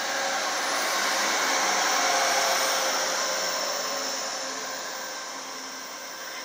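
Amtrak Capitol Corridor passenger train passing close by at speed: a steady rush of wheels on rail and moving air that swells about two seconds in, then slowly fades as the train recedes.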